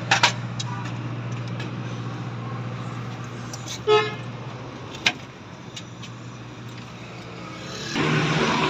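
A short vehicle horn toot about four seconds in, over a steady low engine hum that fades out after about five seconds. A couple of sharp clicks come near the start and one after the toot, and a broad hiss of noise swells near the end.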